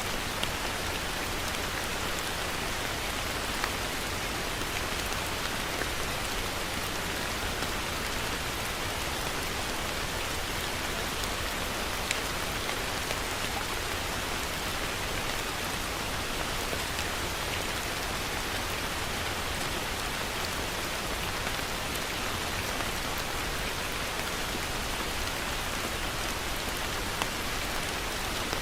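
Heavy rain falling steadily, an even hiss of drops on surfaces, with a few sharper individual drop splats standing out now and then.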